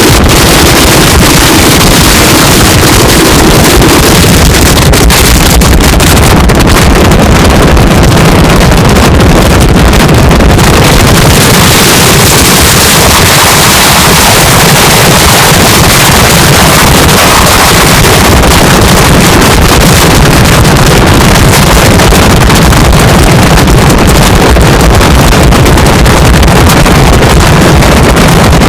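Loud, distorted roar of tornado-strength wind buffeting the microphone, steady and unbroken.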